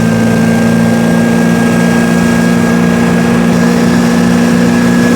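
1924 Austin Seven's small four-cylinder side-valve engine running steadily under way, its note creeping slightly higher as the car gathers speed.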